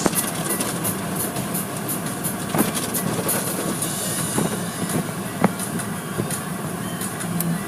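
Automatic car wash running: a steady rushing, rattling noise with a low hum and a few sharp knocks.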